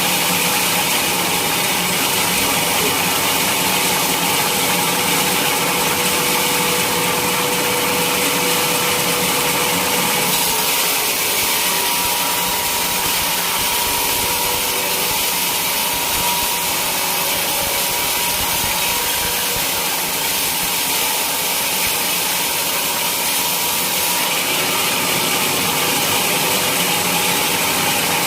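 A sawmill saw running steadily as it cuts through a teak log, a continuous loud machine noise with a hissing high edge that shifts slightly in character about ten seconds in and again near the end.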